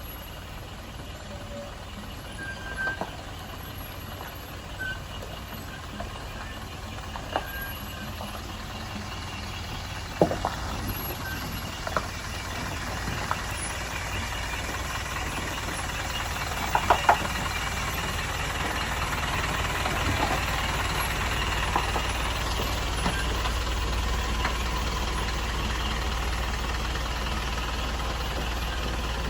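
Diesel engine of an Isuzu Elf Giga truck running steadily as the loaded truck drives, growing gradually louder. Scattered sharp clicks and knocks come through, loudest about ten and seventeen seconds in.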